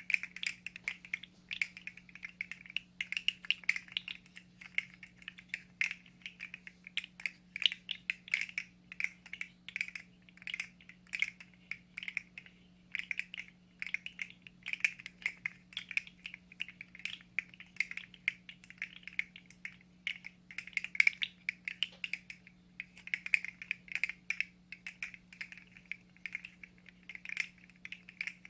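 Computer keyboard typing: a continuous, irregular run of rapid key clicks, over a faint steady low hum.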